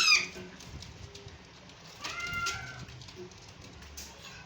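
Ringneck parrot calling: a loud shrill call ends just at the start, and a shorter, quieter call with steady pitch comes about two seconds in.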